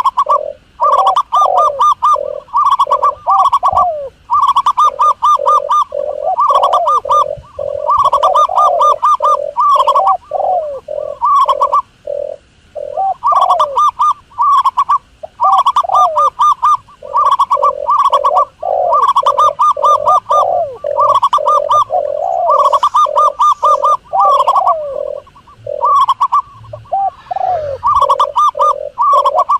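Doves calling: rapid trilled cooing phrases repeated about once a second, with lower gliding coos beneath them and a couple of short pauses.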